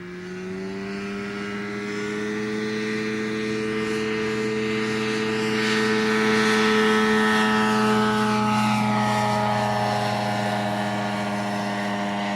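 Ultralight aircraft's engine and propeller drone, growing louder to a peak about seven seconds in as it passes, with the pitch falling away afterwards.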